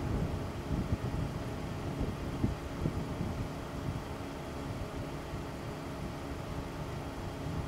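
Car engine idling steadily, with a few low knocks during the first three seconds.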